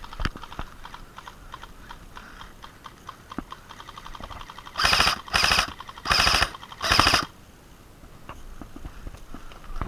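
Airsoft electric rifle firing four short full-auto bursts in quick succession about five seconds in, each a rapid rattle of shots. Before and after the bursts there are scattered light clicks and steps.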